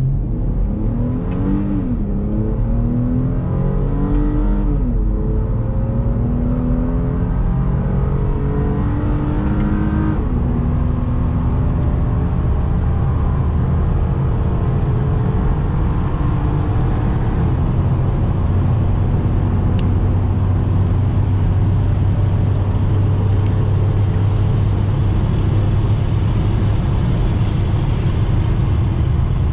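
Hyundai Genesis coupe's 3.8-litre V6 accelerating hard, its note climbing and dropping back at each gear change of the automatic gearbox, three times in the first ten seconds. It then settles into a steady drone at cruising speed.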